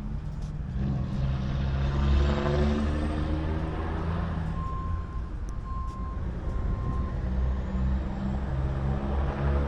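Motor vehicle engines and tyres: traffic passing, swelling twice, with a steady low engine hum underneath. Three short, evenly spaced electronic beeps sound around the middle.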